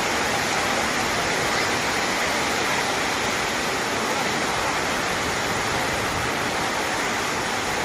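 Heavy storm rain pouring down in a steady, dense rush.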